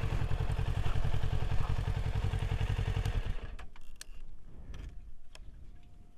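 Kawasaki ER-6n parallel-twin engine idling with a steady low pulse, switched off abruptly about three seconds in. A few faint clicks and clatter follow.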